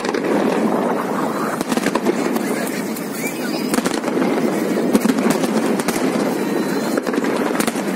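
Aerial fireworks going off in quick succession: many sharp bangs and crackles, one after another with no pause.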